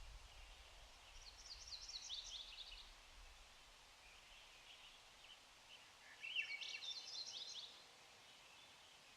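A songbird singing two short phrases of rapid, high, falling notes, one about a second in and a louder one about six seconds in, over faint steady background noise.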